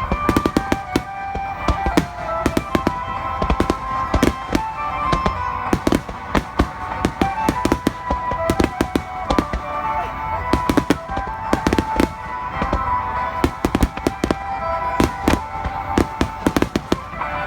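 Fireworks going off in a rapid barrage: many sharp bangs and crackles close together, over music with long held notes.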